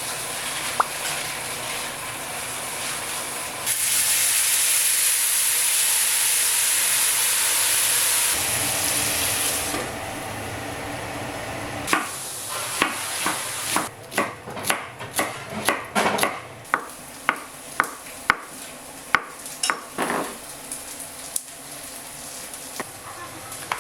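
Kitchen cooking sounds: a steady sizzling hiss that grows louder for about four seconds, then a run of sharp taps and clinks of utensils against a pan or dishes, about two a second.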